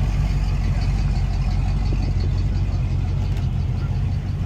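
Classic car's engine idling close by, a steady low rumble.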